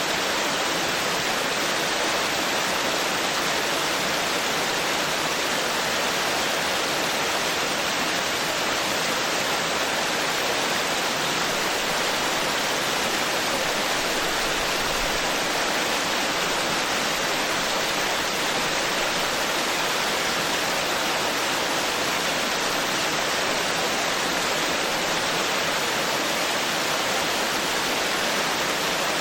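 Forest stream flowing, a steady rush of water that stays even throughout.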